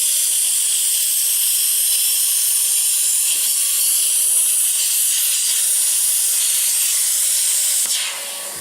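A loud, steady hiss that cuts off sharply about eight seconds in.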